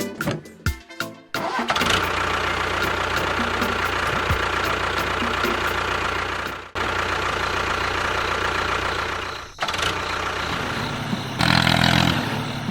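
An engine running steadily after a quick run of clicks, cutting out briefly twice and running louder near the end.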